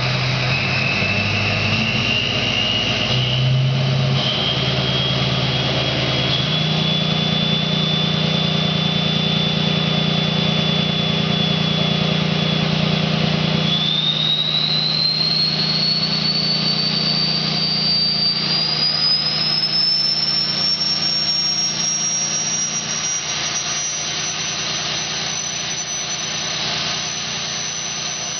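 2003 Ford 6.0L Power Stroke V8 turbodiesel, straight-piped with its stock turbo, running with a loud turbo whistle. The whistle climbs slowly in pitch, then about halfway through sweeps much higher and holds a steady high tone, as the variable-geometry turbo's vane position is changed from a scan tool.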